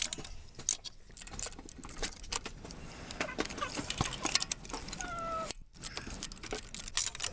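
Small metal objects clinking and clicking again and again, like hand tools and engine parts being handled, with a brief squeak a little after five seconds in.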